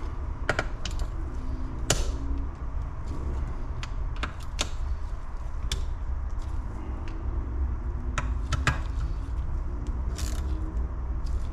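Sharp, irregular metallic clicks of a wrench and socket tightening the engine crankcase screws to torque, some clicks coming in quick pairs, over a steady low hum.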